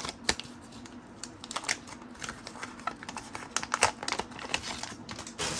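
1990 Fleer basketball cards being moved through by hand, card stock sliding and tapping in light, irregular clicks and rustles.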